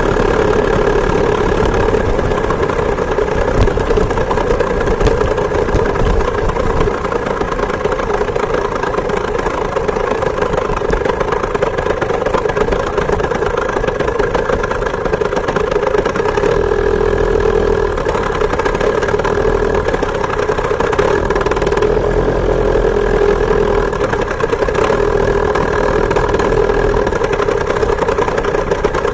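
Two-stroke chainsaw engine driving a homemade moped, running at a steady speed with an even, unbroken note.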